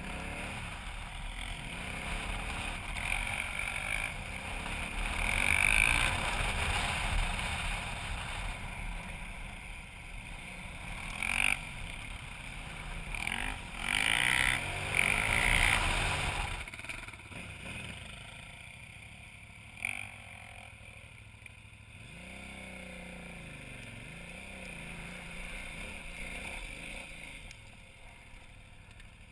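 KTM 990 Adventure's V-twin engine running under way on dirt, revs rising and falling, mixed with wind rush; it is louder for the first half and eases to a quieter run after about seventeen seconds, with a couple of short knocks.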